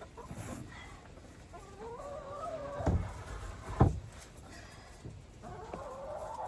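Chickens clucking and calling, with two drawn-out wavering calls. Two thumps, about three and four seconds in, are the loudest sounds.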